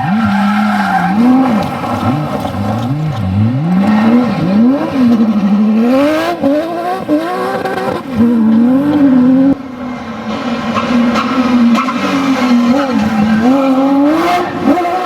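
Porsche 911 GT3 RS flat-six engine driven hard, its pitch climbing and dropping again and again as it revs through the gears and lifts off. The level drops abruptly about nine and a half seconds in.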